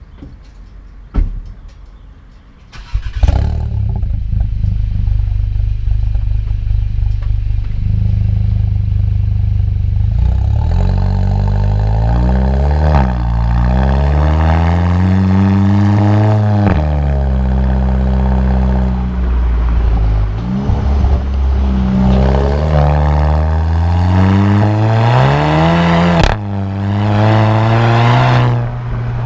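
A VW Golf GTI Mk7's turbocharged 2.0-litre four-cylinder, breathing through a muffler-deleted exhaust, starts with a sudden loud catch about three seconds in, after a single click, and settles to a steady idle. From about ten seconds in it is revved up and down several times, with a sharp crack near the end.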